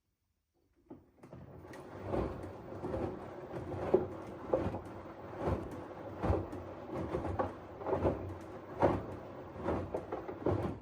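LG front-loading washing machine's drum turning a wet load of clothes in the wash, a steady churning with soft thumps about once a second as the laundry drops. It starts about a second in and cuts off at the end.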